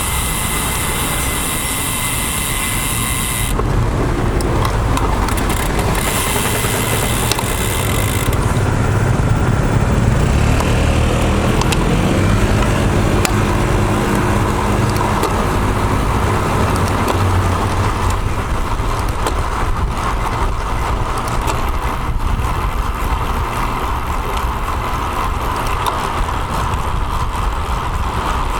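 Road traffic heard from a moving road bike: motor vehicles running and passing close by, over a steady rush of wind on the bike-mounted camera. A bright hiss cuts out sharply about three seconds in and again after about eight seconds.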